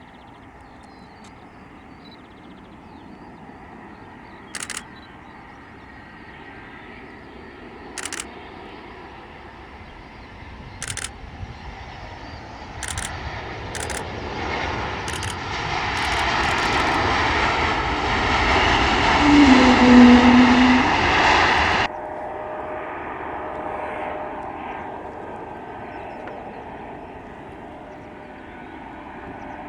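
A landing airliner's engines grow louder as it passes close, peaking about twenty seconds in and then cutting off suddenly. A few short sharp clicks come in the first half.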